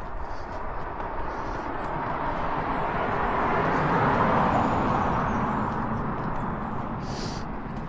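A car driving past, its tyre and engine noise swelling to a peak about four seconds in and fading away again.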